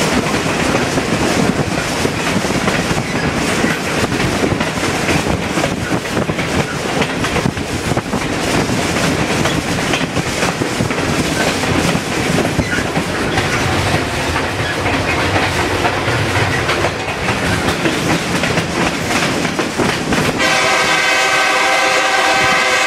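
Train running along the track with a steady rumble and clatter of wheels on rails. About twenty seconds in, the locomotive's horn starts sounding a steady chord and keeps sounding.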